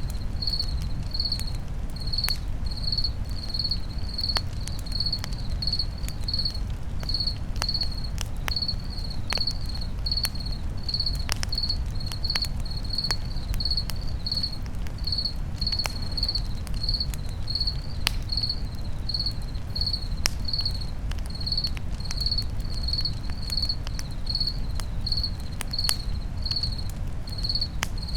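Campfire crackling with scattered sharp pops over a steady low noise, while a cricket chirps evenly about twice a second.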